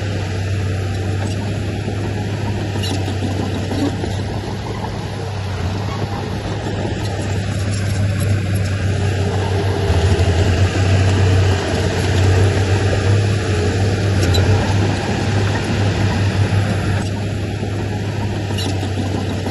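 Heavy diesel engine of earthmoving machinery running steadily with a deep hum, pulling harder and getting louder for a few seconds about halfway through.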